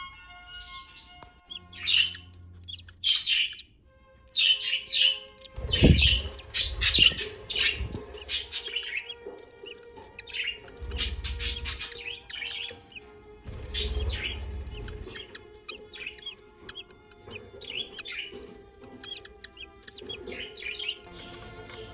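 Budgies chirping and chattering in quick, sharp, irregular chirps, with a few low thumps mixed in.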